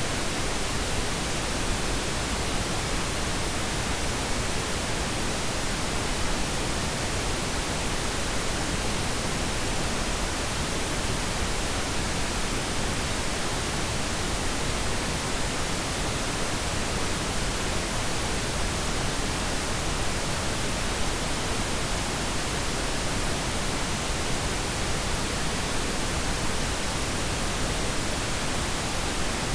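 Steady pink noise: an even, unbroken hiss spread across all pitches, unchanging throughout.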